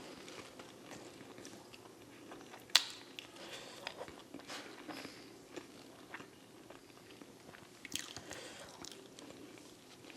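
Close-up biting and chewing of crispy fried boneless chicken: a sharp crunch of a bite about three seconds in, then scattered smaller crunches and mouth clicks as it is chewed.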